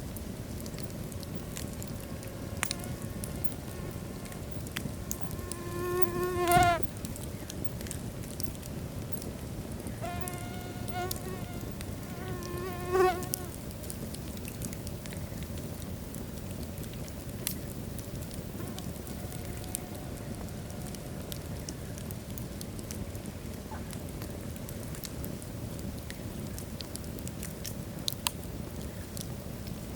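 Wood fire burning in a fireplace: a steady hiss with scattered sharp crackles from the logs. Three brief whistling, buzzing tones come from the fire in the first half, the loudest about six seconds in.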